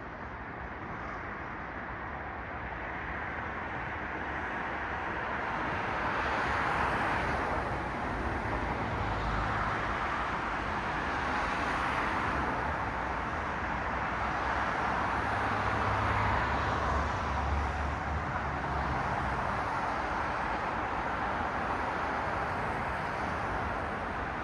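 Road traffic: a steady wash of tyre and engine noise from cars passing, swelling several times as vehicles go by, with a low rumble from heavier vehicles in the middle.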